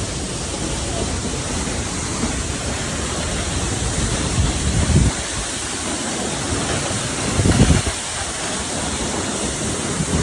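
Waterfall rushing, a steady roar of falling water, with two brief bursts of wind buffeting the microphone about halfway and near the end.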